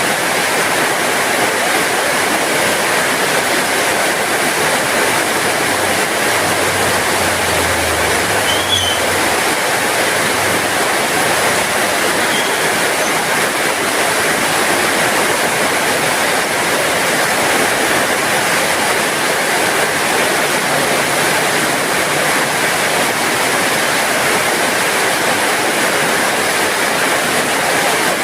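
Steady heavy rain falling, an even hiss. A faint low rumble swells and fades a few seconds in.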